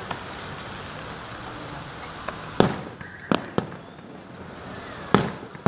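Fireworks exploding: four sharp bangs in the second half, with a few smaller pops, over a steady background hiss.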